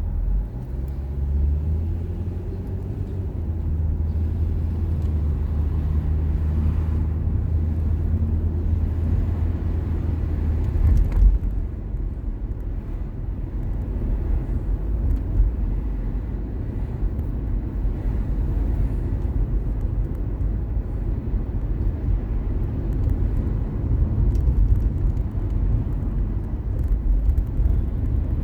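A car driving, heard from inside the car. A steady low engine hum fills the first ten seconds or so, rising slightly at the start; after that there is an uneven low rumble of road and tyres.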